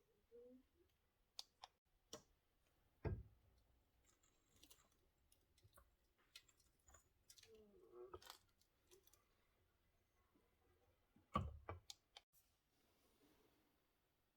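Faint scattered clicks and knocks, with two louder knocks about three seconds in and about eleven seconds in.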